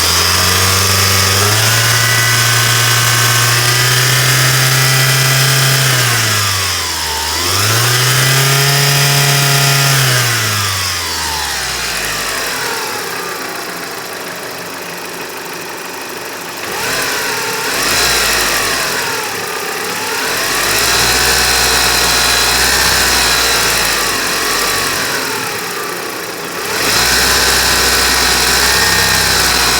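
Mitsubishi 4G63 inline-four engine being revved up and held, then dropping back, several times over, with quieter low-rev stretches in between. The engine has its balance shafts removed, and the owner reports a knock, worse when cold and under load, and a drone between 3500 and 4500 rpm.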